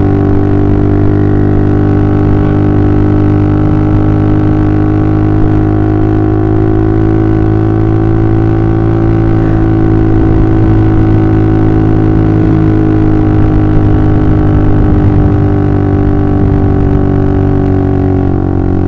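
Honda CB150R's single-cylinder engine running through a full-system DOS Muffler aftermarket exhaust, held at a steady low-to-mid engine speed with an even, deep exhaust drone and only slight changes in pitch.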